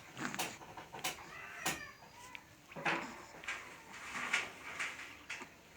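A one-month-old baby cooing, with several short, high vocal sounds a second or so apart.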